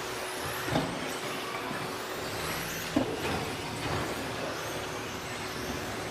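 Electric 13.5-turn brushless 2WD RC stadium trucks racing around the track: a steady racket of motors and tyres with motor whines rising and falling. Two sharp knocks stand out, near the start and about three seconds in.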